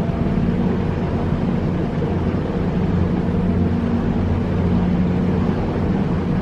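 Whale-watching boat's engine running steadily under way: an even, low hum with a rush of noise over it.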